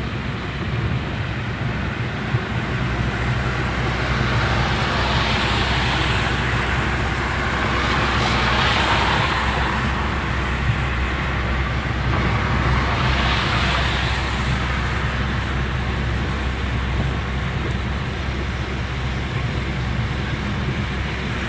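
Steady road and engine noise of a car driving on an expressway, with two louder whooshes as vehicles pass, swelling and fading about eight and thirteen seconds in.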